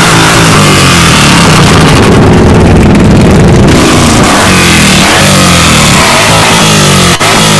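A loud car engine revving, its pitch rising and then falling back, over rock music with electric guitar.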